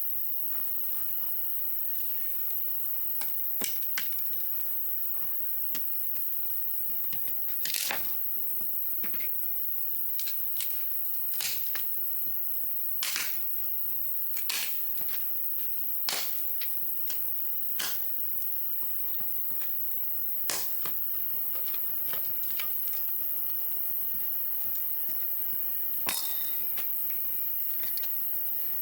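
Wood campfire crackling, with irregular sharp pops and snaps every second or two over a steady low hiss.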